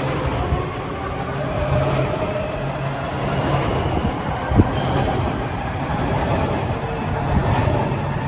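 Washington Metro rail train at the station, a steady mechanical hum with a low drone that comes and goes, and one sharp click about four and a half seconds in.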